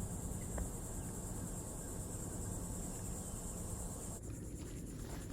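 Insects calling in a steady, high-pitched pulsing buzz that cuts off suddenly about four seconds in.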